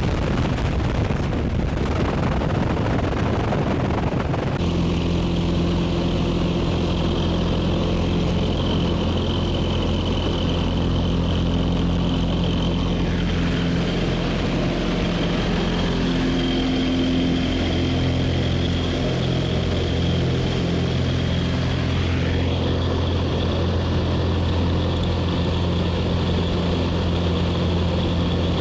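Skydiving jump plane's propeller engine running steadily. The first few seconds are a rushing noise, then a steady engine hum sets in.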